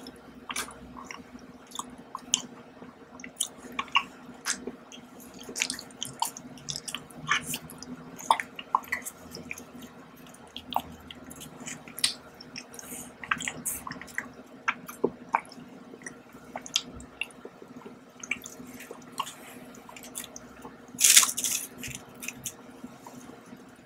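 Close-miked chewing and wet mouth sounds of someone eating chocolate, with many small irregular clicks and smacks. Near the end there is one brief, louder rustle.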